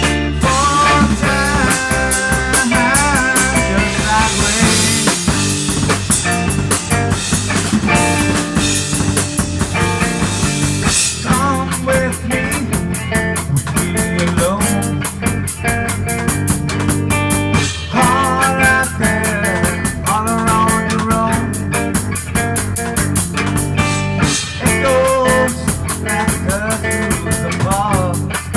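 Rock music with a steady drum kit beat and guitar.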